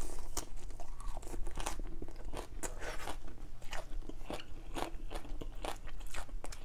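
A person chewing a mouthful of fresh basil leaves: a steady run of irregular crunches, about three a second.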